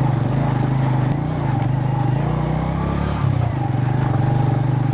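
Motorcycle engine running steadily, its note shifting briefly about three seconds in.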